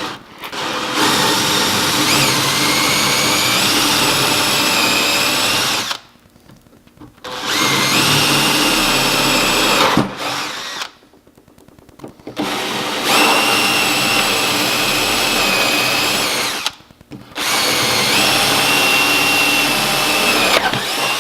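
Electric drill boring bolt holes through a solid-wood workbench top, run four times in bursts of about three to five seconds with short pauses between, the motor whine rising in pitch as it spins up at the start of each run.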